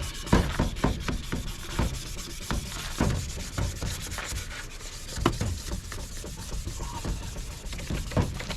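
Rubbing by hand on a car headlight lens: a run of irregular scrubbing strokes.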